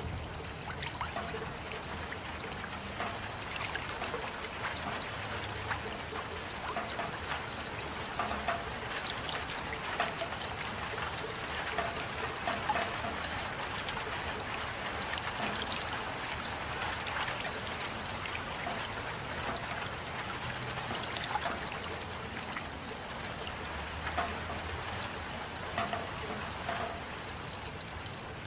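Steady rain: an even hiss of falling water, with many small drops ticking and water trickling.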